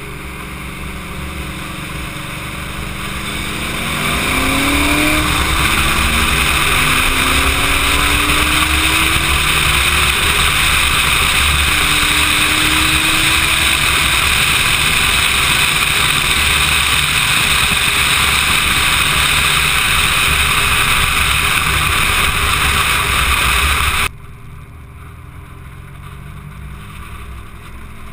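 Turbocharged 1993 Ford Probe accelerating hard from a roll, heard from inside the car. The engine note climbs in pitch several times over, as if pulling through the gears, over loud wind and road noise. The sound cuts off abruptly about 24 seconds in.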